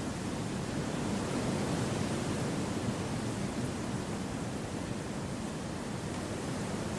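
Wind blowing through forest trees: a steady, deep rushing that swells slightly a second or two in, with no birds or other distinct sounds.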